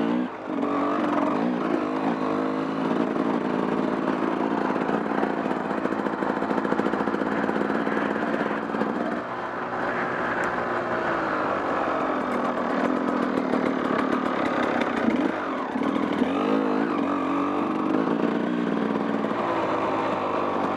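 Off-road motorcycle engine running under riding load, its pitch rising and falling as the throttle is worked, with a brief drop right at the start.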